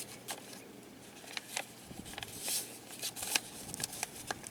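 Paper rustling and crinkling in short, scattered crackles, the sound of a wrapped present being handled and opened.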